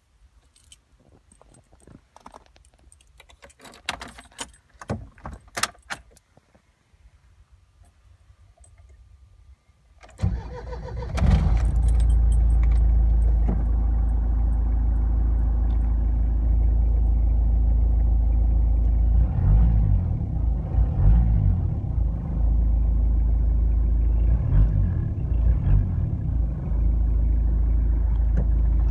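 Keys jangling and clicking, then about ten seconds in the 1995 Jeep Cherokee XJ's 2.5-litre VM turbo diesel cranks briefly and starts. It settles into a steady diesel idle, and the engine note rises twice near the end.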